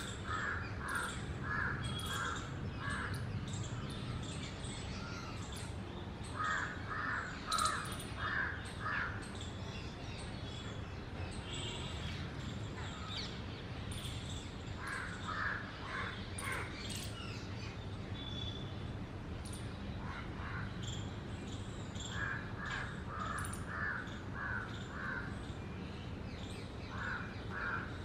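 Birds calling: runs of five or six quick, harsh, caw-like notes come back every few seconds, with thin high chirps in between.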